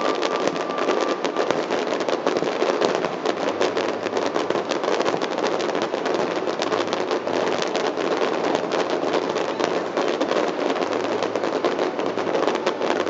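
Fireworks display: a dense, unbroken barrage of rapid overlapping bangs and crackles.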